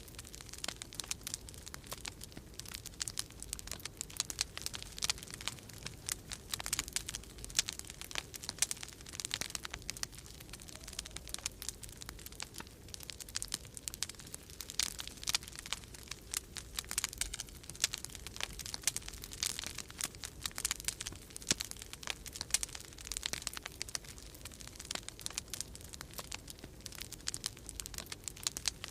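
Wood fire crackling in a fireplace, a dense run of irregular snaps and pops, over a steady low rumble of storm wind.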